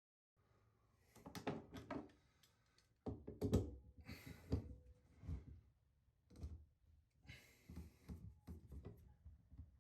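Tools knocking and scraping against a shower floor drain: a string of irregular thunks and knocks, with a few brief scraping stretches. The loudest knock comes about three and a half seconds in.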